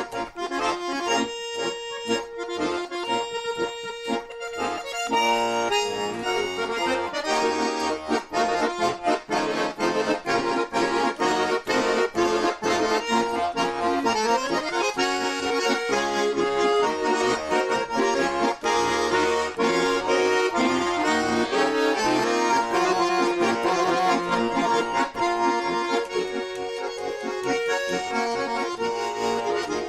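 Russian garmon (button accordion) playing a lively instrumental tune solo. For the first few seconds it plays a few held chords and short notes, then about six seconds in it breaks into a fast, busy melody over chords.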